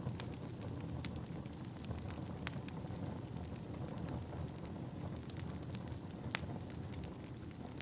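Wood fire burning in a fireplace: a steady low rush of flames with scattered crackles and sharp pops from the burning logs, the loudest about a second in, about two and a half seconds in, and about six and a half seconds in.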